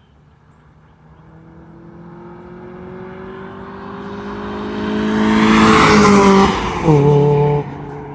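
Mazda Miata four-cylinder with a Magnaflow exhaust, glasspack and aftermarket header, driving by under acceleration. The engine note grows louder and rises steadily in pitch, peaks as the car passes about six seconds in, then drops in pitch and falls off abruptly shortly after.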